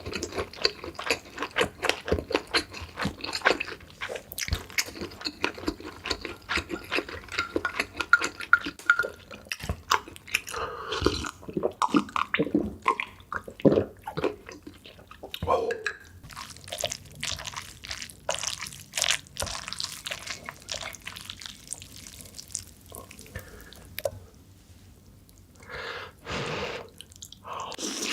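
Close-miked eating: chewing with wet mouth clicks and smacks, in dense irregular runs that thin out and pause briefly near the end.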